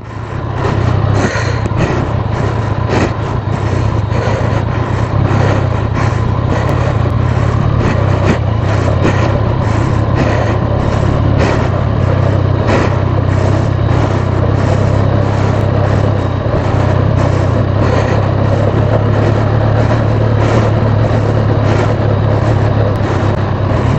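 Road and wind noise of a motorbike ridden slowly on a snowy, icy road: a steady low rumble with frequent short crackles.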